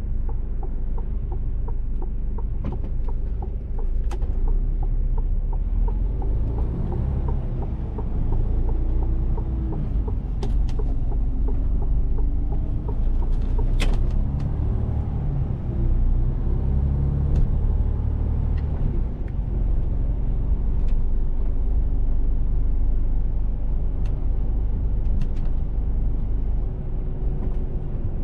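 Mercedes-Benz Actros truck's diesel engine running under way, a steady low rumble whose pitch rises and falls as the truck accelerates and changes gear, with a few light ticks and rattles.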